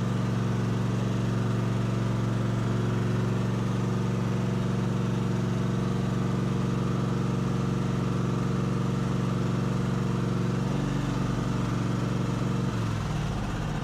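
Gasoline engine running steadily. About eleven seconds in its pitch drops, and near the end it slows further and gets quieter.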